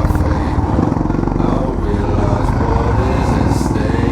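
Small off-road engine running under load, heard up close as the vehicle rides along.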